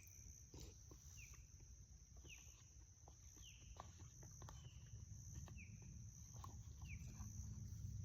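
Faint outdoor ambience: a short whistled animal call repeating about once a second, over a low rumble and a steady thin high whine.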